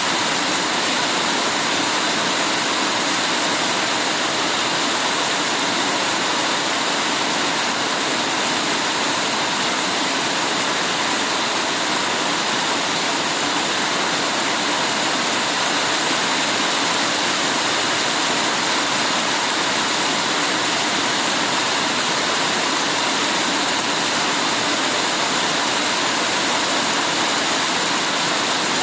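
Heavy rain falling: a dense, steady hiss that holds constant without any single drops, thunder or other events standing out.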